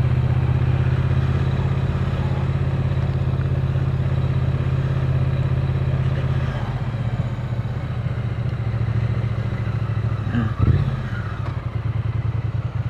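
Triumph Speed Twin 900's 900 cc parallel-twin engine running at a steady low road speed. About halfway through it drops to a quieter, more uneven pulsing note, with a short blip near the end.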